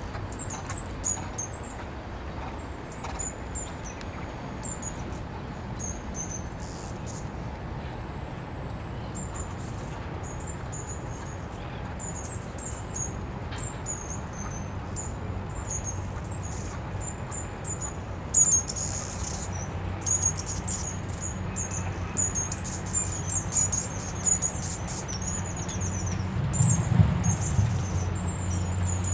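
Small birds chirping and twittering, short high notes repeating over and over, above a steady low hum.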